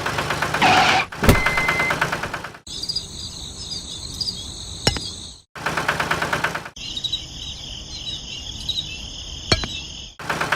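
A small engine running with a fast, even beat, broken by abrupt cuts into two stretches of insects trilling steadily at a high pitch. There is a sharp knock about a second in, and a few clicks during the insect stretches.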